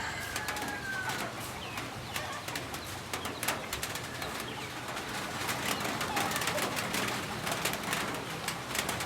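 The first drops of a heavy rain pattering, scattered at first and growing denser from about halfway, with birds calling: a short gliding call near the start.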